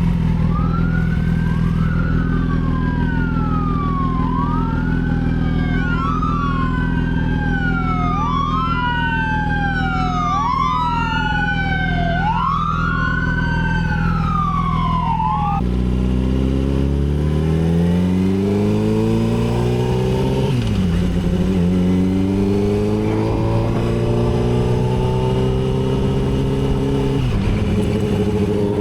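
A Yamaha R6's inline-four engine runs steadily while an emergency-vehicle siren wails, rising and falling about once every two seconds. The siren cuts off about halfway through. The bike then accelerates, its pitch climbing, dropping and climbing again with two upshifts.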